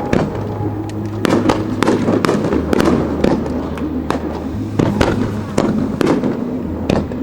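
Fireworks display: shells bursting in quick succession, about two sharp bangs a second, with a dense rumble between them.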